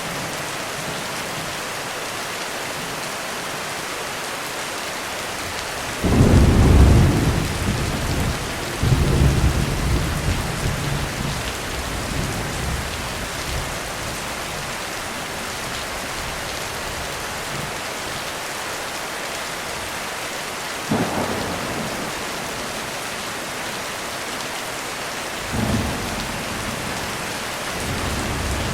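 Heavy rain falling steadily on a roof, with a loud crack of thunder about six seconds in that rumbles on for several seconds, and two shorter thunder rumbles later on.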